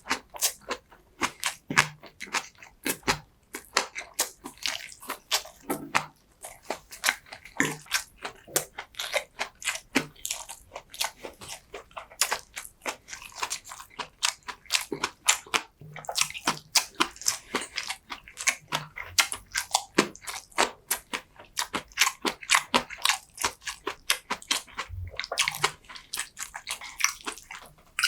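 Close-miked eating sounds: continuous chewing and biting, with many wet, sticky clicks and smacks of the mouth, several a second.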